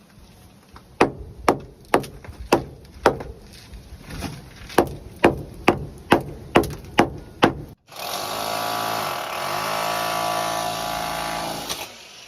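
An iron hammer striking hard masonry about a dozen times, roughly two blows a second. After a cut, an electric rotary hammer runs steadily for about four seconds, drilling into very hard material.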